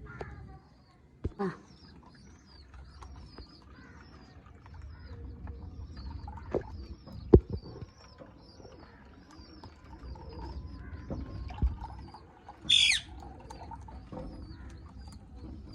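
Aviary birds chirping: a quick, steady run of short high chirps, two or three a second, with one loud shrill squawk about three seconds before the end and a few sharp knocks along the way.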